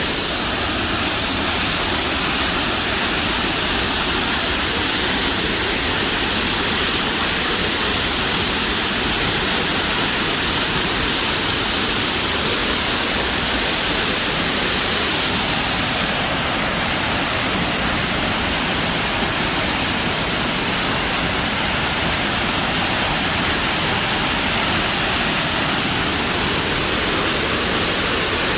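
Waterfall: water falling and splashing in a steady, loud rush with no breaks.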